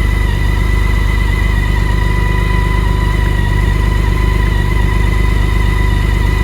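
2019 BMW K1600GT's inline-six engine idling steadily, still warming up after a cold start from winter storage. A steady thin high whine runs alongside.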